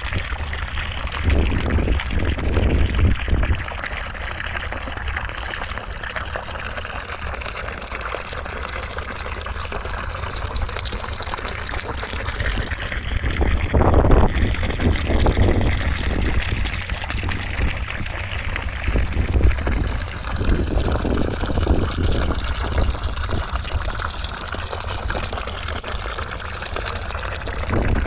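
Continuous rushing white noise, steady in level, with slow sweeping shifts in its tone and a few gentle swells.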